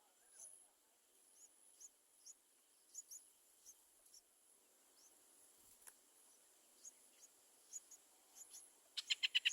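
Faint, scattered high bird chirps over a steady high insect drone. About nine seconds in comes a quick run of louder chirps.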